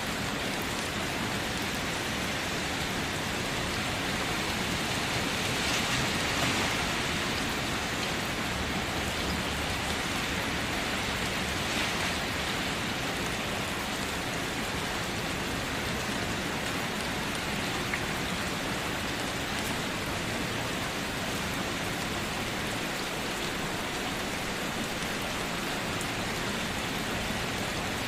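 Steady rain falling and pattering on a surface, swelling slightly about six seconds in.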